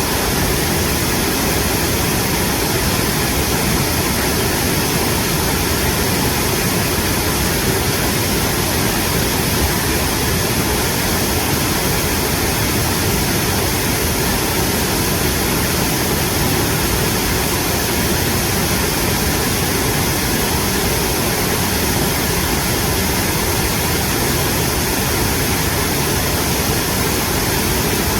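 Mountain stream rushing over rocks, a loud, steady wash of water.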